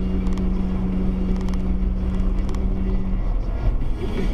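Motor vehicle running with a low rumble of engine and road noise, and a steady low drone that stops about three seconds in.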